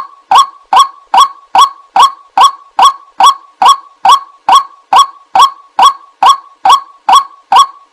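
White-breasted waterhen (ruak-ruak) call played as a lure recording: short, loud, pitched calls repeated at a steady, even rhythm of about two and a half a second.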